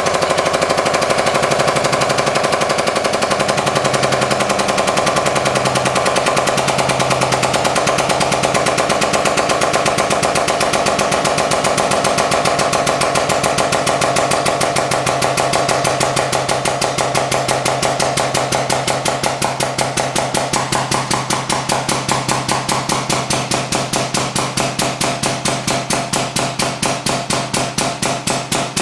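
Hydraulic press pump running hard under load as the press builds toward 30 tons: a loud, fast, even pulsing that slows and grows more distinct in the second half as the pressure climbs.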